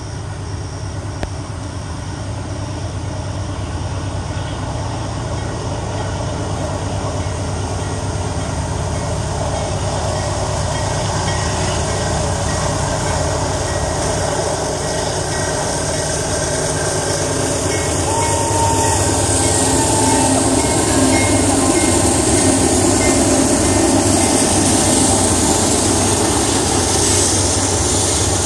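Union Pacific freight train led by three diesel locomotives approaching and passing, its engine rumble growing steadily louder. Near the end the freight cars start to roll past.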